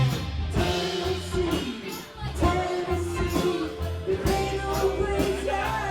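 Live rock band playing, with drum kit, bass and guitar, and a long held note over the top.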